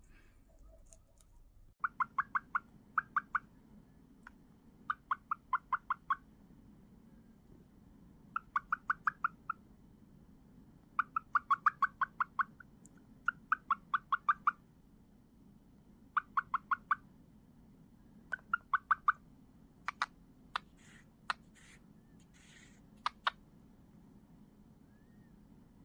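Cockatiel giving bursts of quick, repeated short notes, several in a row, again and again, followed by a few sharp clicks near the end.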